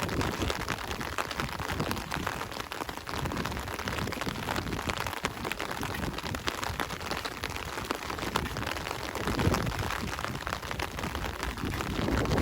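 Steady rain falling, a dense patter of drops close by. A low rumble swells briefly about nine seconds in and again near the end.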